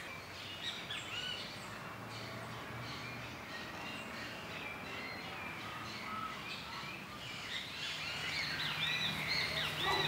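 Outdoor garden ambience with several small birds chirping, the chirps getting busier near the end.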